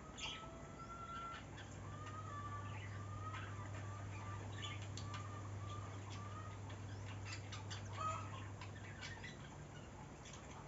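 Birds calling: a run of short, evenly spaced whistled notes, about two a second, among scattered chirps and clucking. A faint steady low hum starts about a second and a half in and stops near the end.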